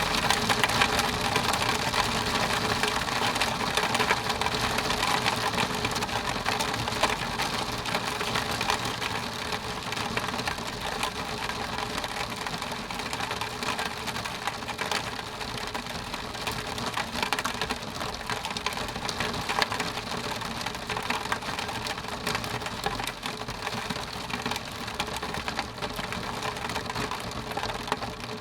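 Rain pattering steadily on a window pane, a dense stream of fine drop ticks that eases off slightly after the first few seconds.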